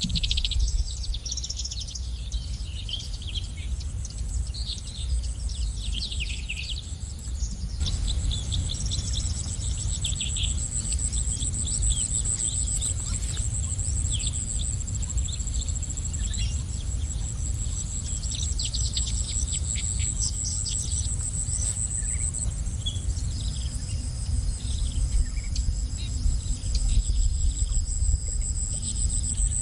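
Small birds chirping and twittering in short scattered calls over a steady, high-pitched insect trill, with a low steady rumble underneath.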